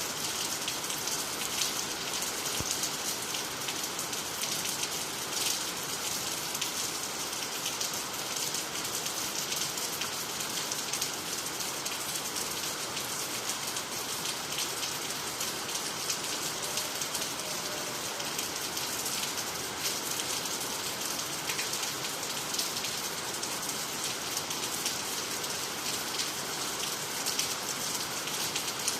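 Steady rain falling at night, a dense even patter of drops on water, trees and the ground.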